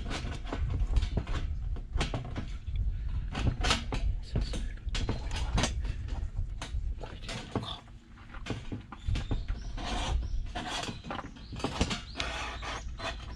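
Thin stainless-steel sheet and rods of a homemade fire pit being handled and fitted together: irregular metallic clicks, taps and rattles, over a low rumble.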